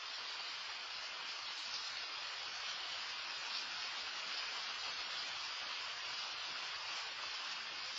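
Loud rain falling steadily, an even hiss with no single drops standing out.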